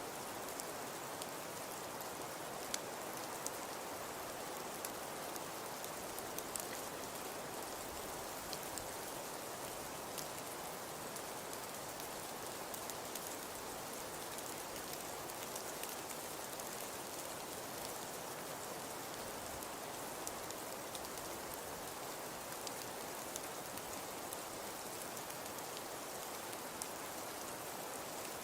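Fireplace fire crackling: a steady soft hiss with scattered small pops and snaps.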